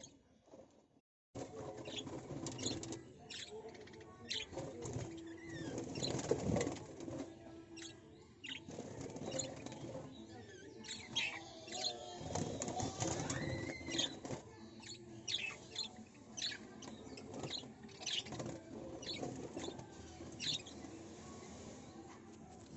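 Birds chirping outdoors, many short sharp calls in quick succession over a steady background, with a short break about a second in.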